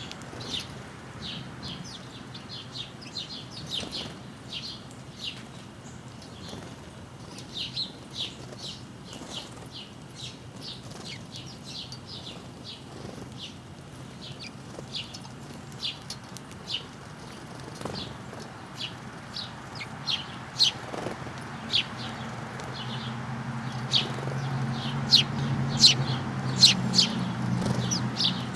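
Small backyard birds at feeders chirping: a stream of short, high chirps, several a second, growing louder near the end. A low hum rises underneath in the last several seconds.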